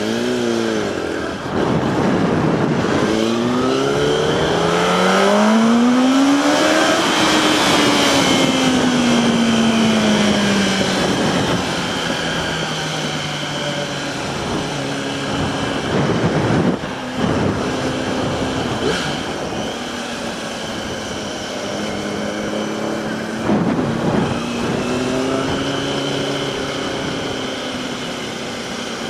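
Yamaha R1 motorcycle engine pulling away and accelerating through a few quick gear changes, then easing off with the revs falling slowly. It accelerates again near the end, over a steady rush of riding wind.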